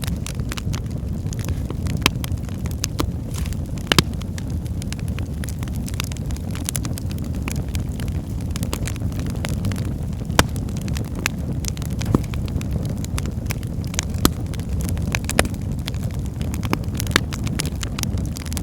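Wood fire burning in a fireplace: a steady low rumble of flame with frequent sharp crackles and pops from the burning logs, a few of them louder than the rest.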